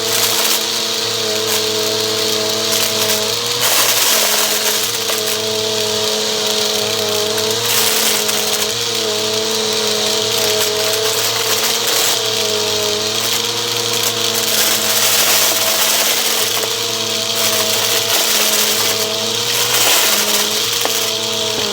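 Bissell vacuum cleaner running continuously: a steady motor whine over rushing air. The tone and air noise shift slightly every couple of seconds as the vacuum is worked back and forth.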